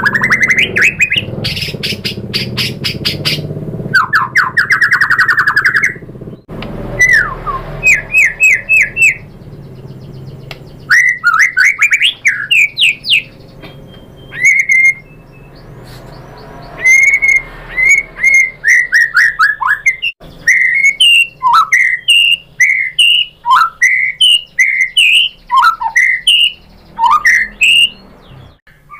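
White-rumped shama singing a long, varied song. It opens with fast runs of rapid repeated notes and rising sweeps, then after a short break gives a long series of quick slurred whistles.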